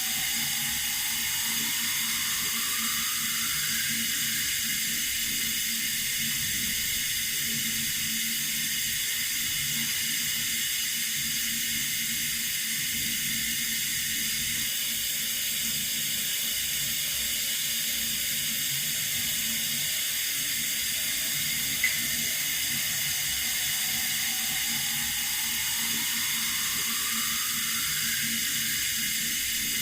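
Running water, a steady unbroken hiss with most of its sound high up. A single short tick about two-thirds of the way through.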